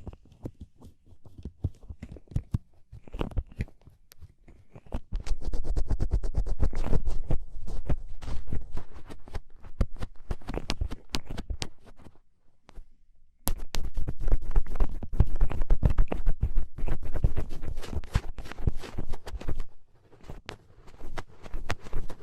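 Black ear pick scratching and scraping in ear-cleaning ASMR: dense, rapid scraping strokes that break off about twelve seconds in and resume abruptly a second later.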